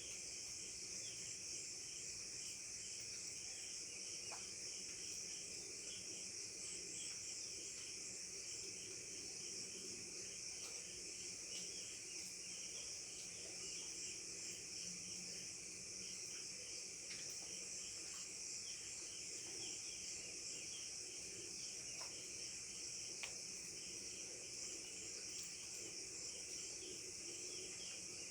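Steady chorus of crickets and other insects, a dense high-pitched trill with a lower, rapidly pulsing chirping under it and a few faint ticks.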